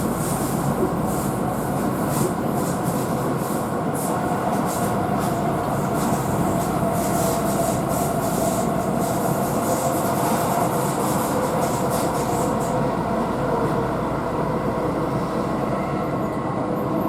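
Keihan electric train running at speed, heard from inside the carriage: a steady rumble of wheels on rail with a faint motor whine. Repeated ticks of the wheels over the track sound through the first part, then fade.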